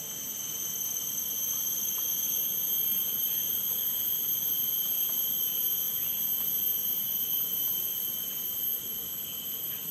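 Steady high-pitched drone of insects, several unchanging tones held together, over the even hiss of falling rain.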